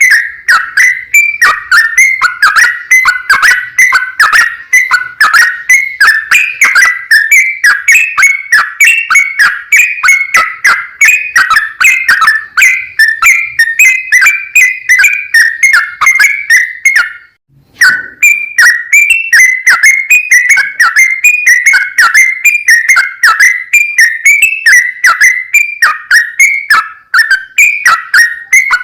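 Yellow-vented bulbul (trucukan) singing a long, rapid, unbroken run of quick chirping notes, the full non-stop song that bird keepers call 'gacor ropel panjang'. The song breaks off briefly about seventeen seconds in, then runs on.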